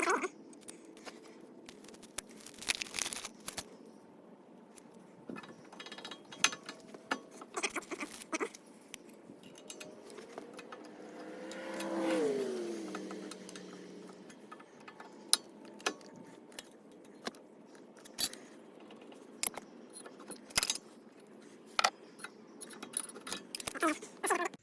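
Small metal brake parts clinking, tapping and scraping as they are handled and cleaned, in many short irregular clicks. About halfway through, a vehicle passes by, swelling and falling in pitch before it fades.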